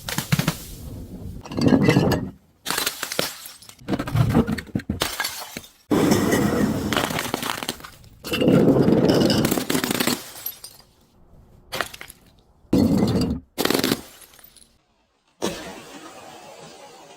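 Glass bottles and jars shattering, one after another: a series of separate crashes with tinkling shards, each breaking off abruptly into the next.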